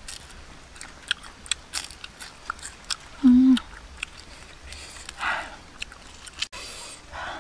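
A person biting and chewing a crunchy fried scorpion: many sharp crunches in the first three seconds, then a short hummed "mm" a little after three seconds in. Two breathy exhales follow later.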